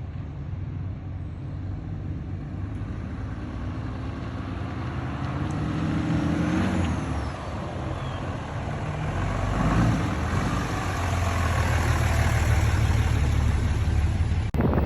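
Truck engine and exhaust running under way, its pitch rising briefly around six to seven seconds in, then getting louder toward the end as it pulls harder.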